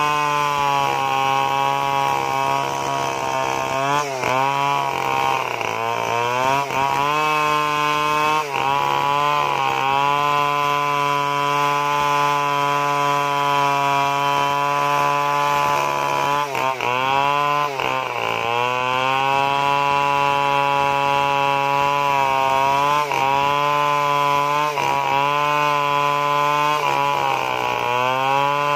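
Stihl two-stroke chainsaw running at high revs through the cut, its pitch sagging briefly and recovering several times as the chain loads in the wood.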